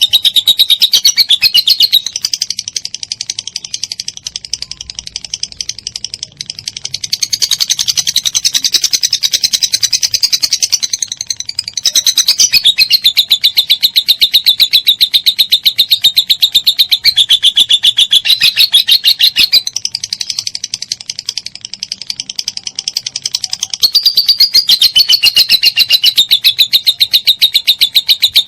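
Lovebird in long 'ngekek' song: an unbroken chattering trill of rapid, high repeated notes, as a 'konslet' lovebird gives it nonstop. It turns softer twice for a few seconds before coming back at full strength.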